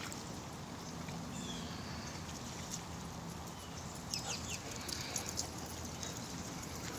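Steady rain falling, with scattered sharp ticks and taps, a cluster of them about four to five seconds in.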